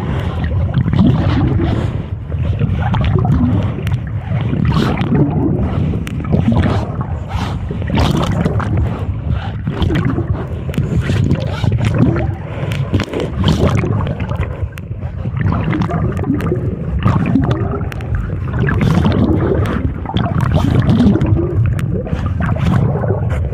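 Wind buffeting the microphone in a loud, steady rumble, with irregular water splashes and sloshing on a windy bay.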